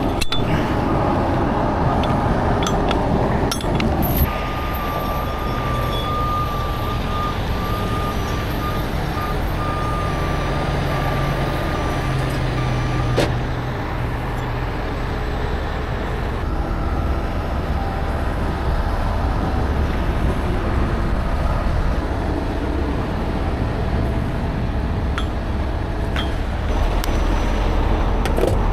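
Heavy truck's diesel engine running steadily, with a reversing alarm beeping from about four seconds in until about thirteen seconds in.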